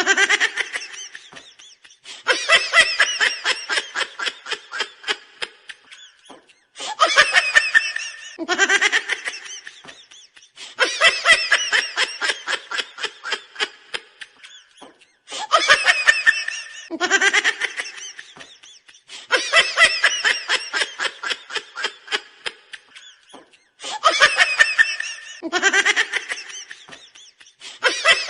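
A laughing sound effect played on a loop, repeating about every eight to nine seconds, about three times here. Each round opens with a short squeal and a rising sound, then a long run of rapid 'ha-ha-ha' pulses that fade away.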